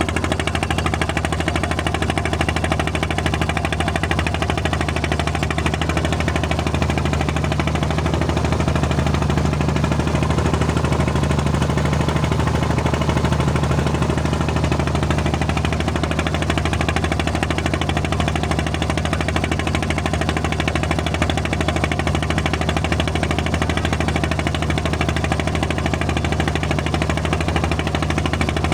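Steady drone of a small propeller plane's engine and propeller, heard from inside the cabin in flight.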